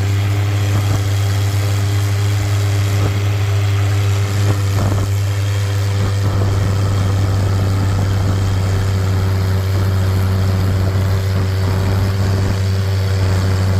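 Antique tractor engine running at a steady speed, a loud, unchanging low hum with no revving.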